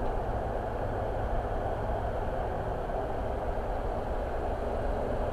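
Steady road and engine noise of a car driving along a highway.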